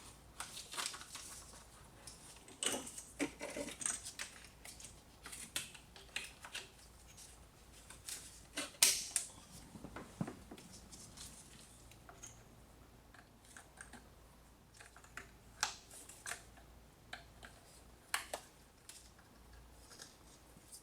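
Irregular clicks, taps and short scrapes of hand tools and small metal parts being handled, with one sharper knock about nine seconds in.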